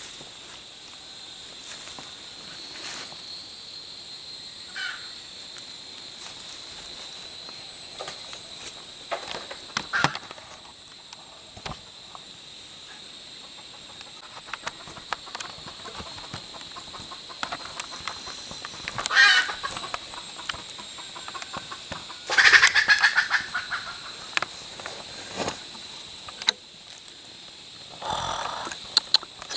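Rooster crowing, loudest twice about two-thirds of the way in and again near the end, over a steady high-pitched insect drone.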